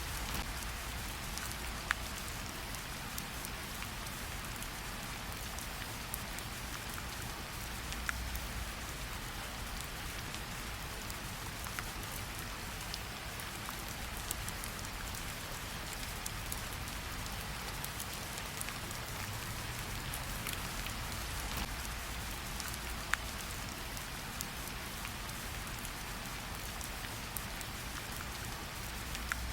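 Steady light rain pattering on tree leaves, with scattered individual drops ticking sharply, a few standing out louder.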